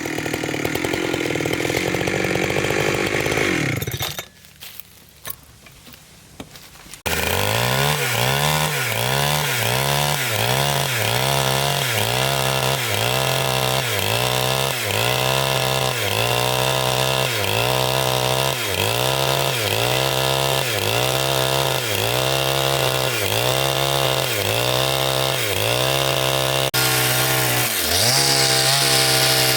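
Chainsaw running at high revs while cutting wood, with its pitch dipping and recovering in an even rhythm about once every second and a quarter as the chain bites. It drops out to a much quieter sound for a few seconds about four seconds in.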